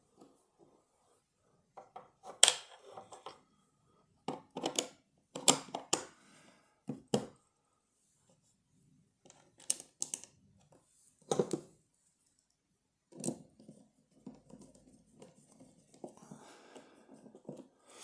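Small metal parts of a lever lock (levers and spacers) being handled and set down: a series of irregular sharp clicks and clacks, about a dozen, with quiet gaps between.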